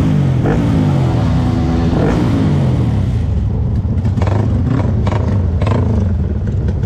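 Several motorcycle engines running at a standstill. Revs rise and fall over the first few seconds, then settle into a steady low idle.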